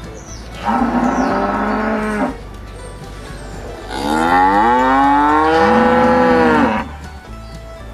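Cattle mooing: one call of about a second and a half, then a longer, louder call of nearly three seconds about four seconds in.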